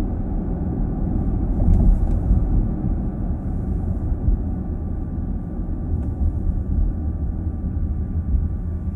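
Steady low road and tyre rumble inside a moving car's cabin, with a faint steady whine above it.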